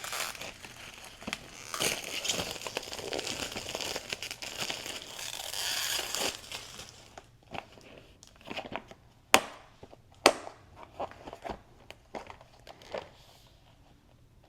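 Plastic packaging crinkling as a newly delivered set of tempera paint sticks is unwrapped, followed by a few sharp clicks and taps as the sticks are handled.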